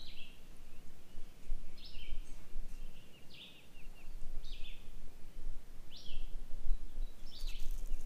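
A songbird calling repeatedly, about every second and a half: each call is a sharp high slurred note followed by a couple of quick lower chips. Underneath is a low steady rumble.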